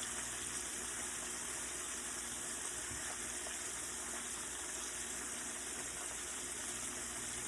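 Chicken wings frying in hot oil: a steady sizzle.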